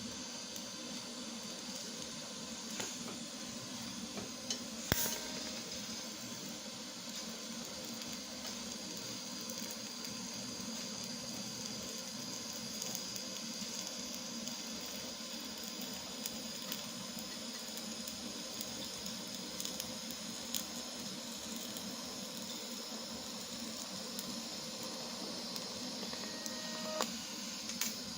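Stick (arc) welding with a nickel rod on cast iron: a steady sizzling, crackling arc, with a sharp click about five seconds in and another near the end.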